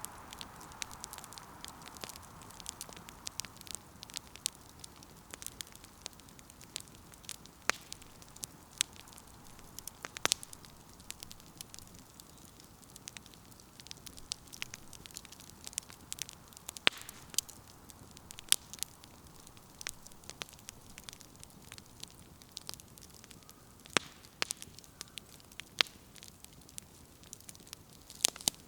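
Firewood burning in a campfire, crackling with irregular sharp pops and snaps. A soft hiss at the start fades away over the first few seconds.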